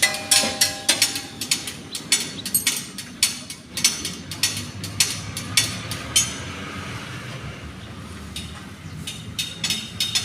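Repeated sharp metallic clicks and clinks of hand tools at work on a tractor radiator. They stop for a few seconds just past the middle and start again near the end.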